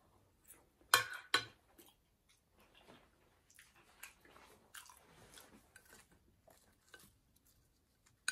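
Close-up chewing of food, wet mouth sounds and small clicks, with two sharp clicks about a second in.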